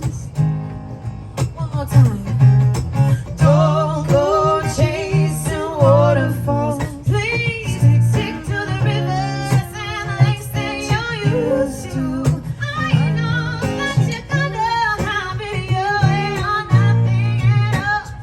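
Live song performance: a voice singing a wavering melody over strummed guitar.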